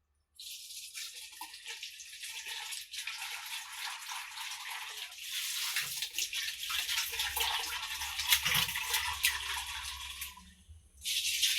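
Water running steadily into a basin of laundry, starting about half a second in, growing louder about halfway through and stopping near the end.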